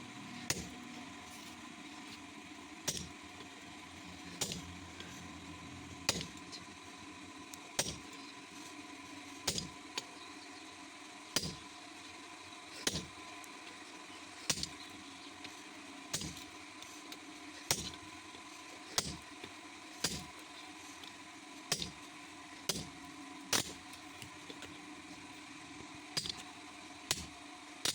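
Hammer blows on metal at a slow, even pace, about one every second and a half, over a steady machine hum.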